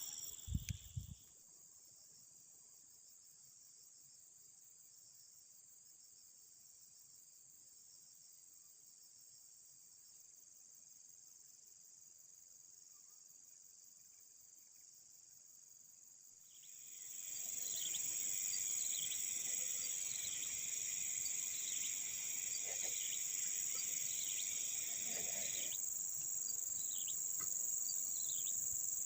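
Steady high-pitched chorus of crickets and other insects, faint at first. About halfway through it becomes much louder, with short chirps over it.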